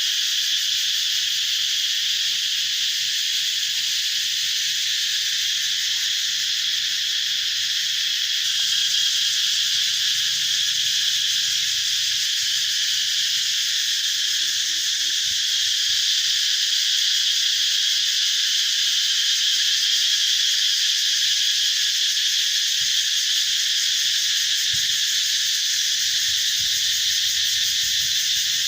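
Cicadas chorusing in a deafening, steady high-pitched drone that never lets up, growing slightly louder about eight seconds in.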